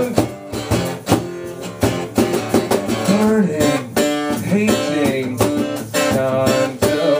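Live rock band playing an instrumental passage: guitar with bending notes over fast, steady drum hits.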